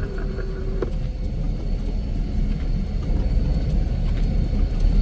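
Heavy snow-removal machine engine running steadily: a low, even rumble with a faint high whine over it.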